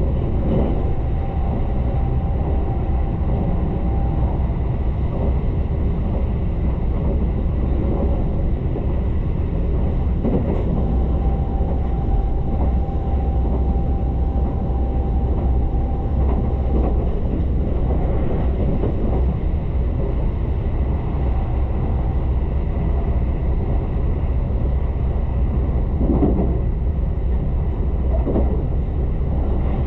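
Tobu Isesaki Line limited express train running at speed: a steady low rumble of wheels on the track. A faint steady whine comes in twice for a few seconds, and there are a few short knocks.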